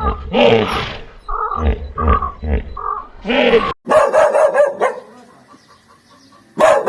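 A dog barking: a quick run of short barks that breaks off suddenly a little past halfway, followed by more barking.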